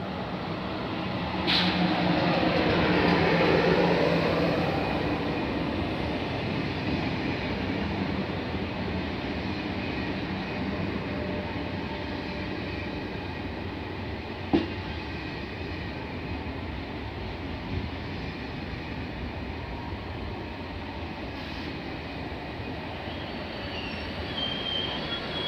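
SNCF TGV high-speed electric train rolling slowly past. It is loudest about two to four seconds in as the power car goes by, then the passenger cars give a steady rumble on the rails, with one sharp click about halfway through.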